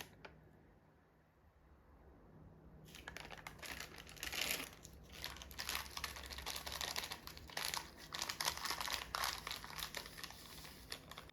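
Crinkling and rustling of something like a paper or plastic wrapper being handled, in dense irregular crackles that start about three seconds in.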